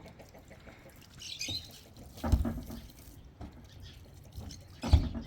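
Two dull thumps about two and a half seconds apart, with a brief high chirp a second before the first.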